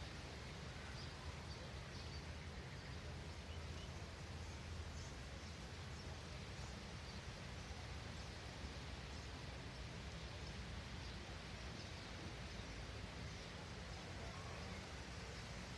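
Faint outdoor ambience: a steady low rumble under scattered, faint, high bird chirps.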